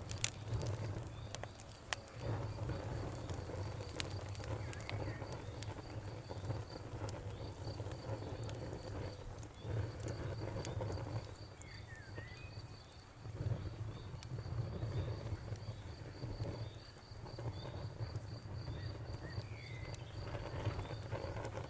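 Campfire wood crackling with scattered sharp pops over a low rumble, while a cricket chirps steadily in an even pulsed trill and a bird gives a few short calls.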